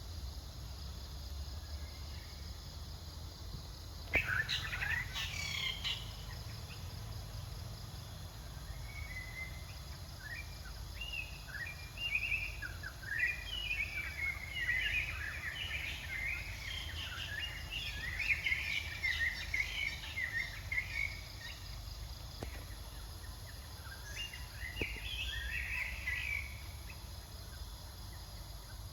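Outdoor ambience with a steady low rumble. A short call sweeps upward about four seconds in, and a long run of quick, high chirping animal calls goes from about nine seconds in to about twenty-six seconds.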